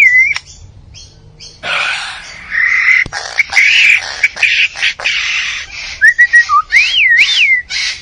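A bird singing a varied song: a stretch of harsh, scratchy notes broken by sharp clicks, then a few short whistles and two looping whistled notes that rise and fall near the end.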